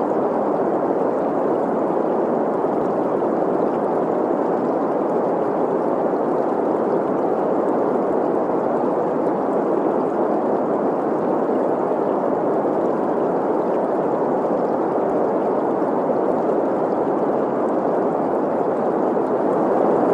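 Steady synthetic green noise, an even rushing hiss centred in the middle range, mixed with the sound of a flowing stream.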